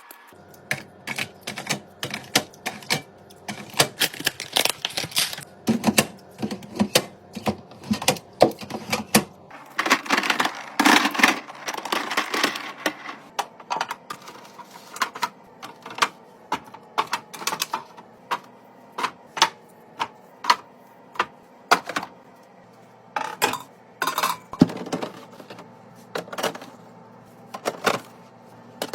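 Irregular, rapid clicks and taps of plastic and glass containers, lids and grocery items being handled and set down while a fridge is restocked, with a busier stretch of handling noise about ten seconds in.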